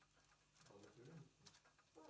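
Near silence with a faint, short, low murmur of a voice about halfway through, then a light click near the end.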